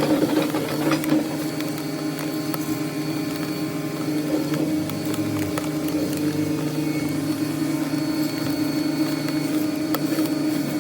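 A heavy machine's engine running steadily at a constant hum, with scattered faint clicks and knocks.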